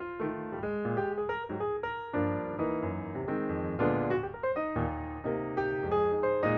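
Background piano music, a steady run of notes with sustained chords.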